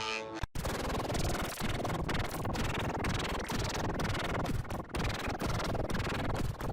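Harsh, static-like noise from a heavily distorted audio effect, with no clear tune left. It starts abruptly after a brief dropout about half a second in.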